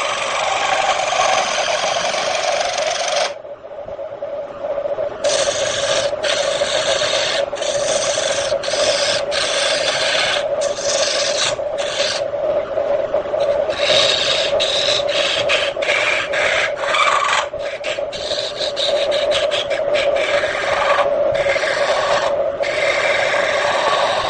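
Wood lathe running with a steady hum while a hand-held turning tool cuts and scrapes the spinning wood in repeated strokes, lifted off for about two seconds near the start and then applied in many short passes.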